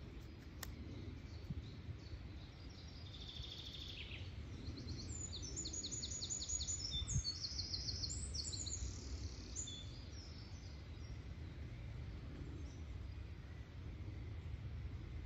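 A songbird sings a fast, trilling song of rapid high notes, starting about three seconds in and stopping around ten seconds in. Under it runs a low, steady background rumble.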